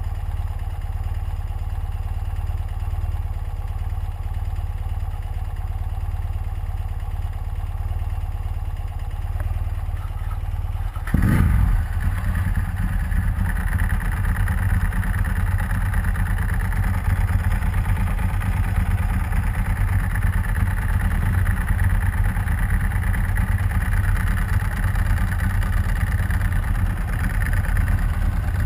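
Motorcycle engines, a BMW R100RS boxer twin and a Ducati 996 V-twin, idling steadily. About eleven seconds in the sound jumps suddenly louder, with a quick blip, and stays louder and fuller as the bikes run under throttle.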